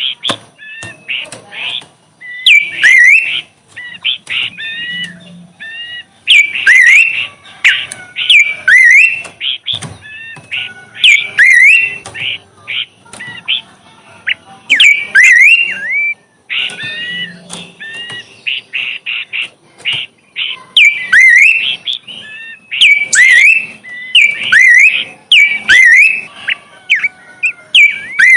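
A songbird singing loudly: bursts of quick whistled phrases made of sweeping, bending notes, repeated over and over with short pauses between them.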